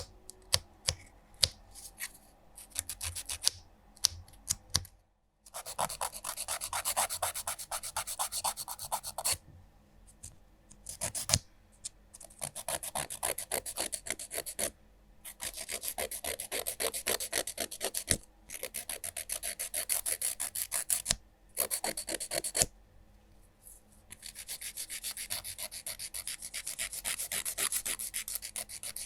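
A nail file rasps rapidly back and forth across fingernails in quick runs of strokes, each run a few seconds long with short pauses between. The first few seconds hold only scattered short, sharp strokes or taps.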